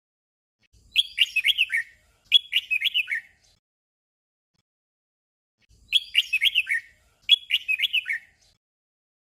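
Red-whiskered bulbul singing its short 'double' song: a quick phrase of warbling whistled notes given twice in a row, and the pair repeated about five seconds later.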